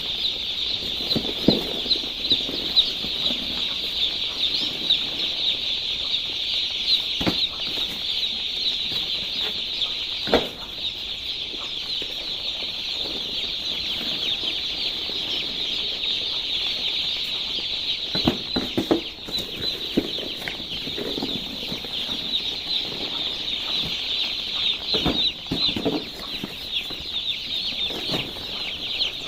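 A large group of day-old poultry chicks peeping continuously, many high calls overlapping into a steady chorus, with a few brief knocks now and then.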